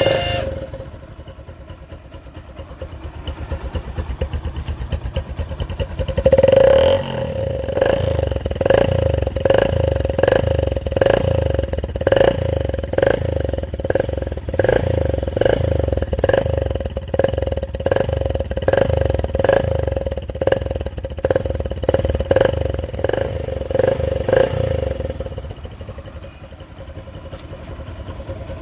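Motorcycle engine idling, then blipped over and over, about two revs a second, for most of the stretch before settling back to idle near the end.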